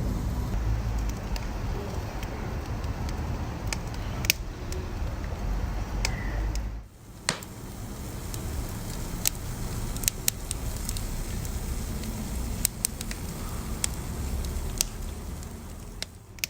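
Wood fire crackling, with sharp irregular pops and snaps over a low, steady rumble of burning. The sound dips briefly about seven seconds in.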